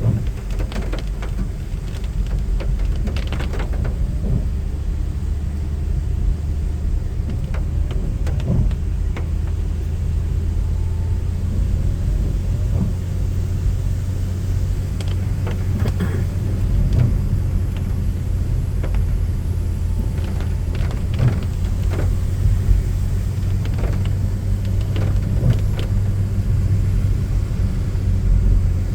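Steady low rumble of a vehicle on the move, with scattered light clicks and knocks.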